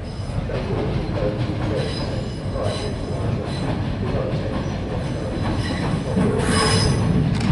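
Two coupled Class 375 Electrostar electric multiple units rolling slowly into the terminus platform, wheels squealing on the curved approach track. The sound grows louder about six seconds in as the train draws close.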